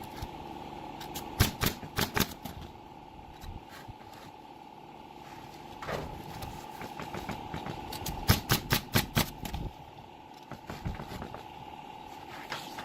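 A steady mechanical hum with two clusters of sharp, rapid knocks, the first about a second and a half in and the second about eight seconds in.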